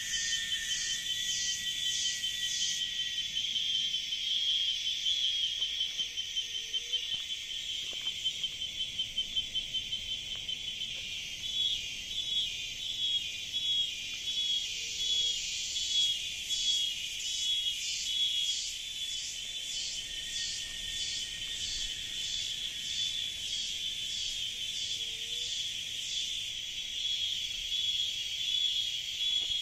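Tropical rainforest cicadas calling in a continuous shrill chorus. A second cicada song pulses over it about twice a second near the start and again through the second half.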